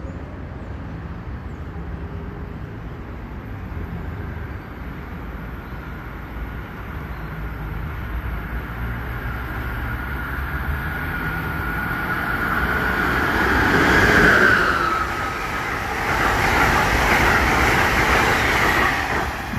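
Amtrak passenger train approaching and passing on the far track. The noise builds steadily, with a high steady tone that grows louder and dips in pitch about 14 seconds in, then the rush of the passenger cars going by near the end.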